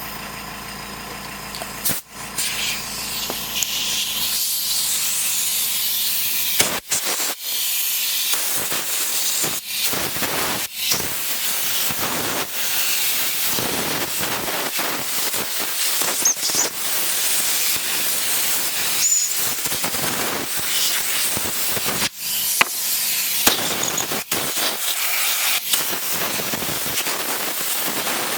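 Compressed air hissing from a blow gun in repeated blasts of a second or more, blowing dirt off a chainsaw. A low steady hum sits under the first seven seconds and then stops.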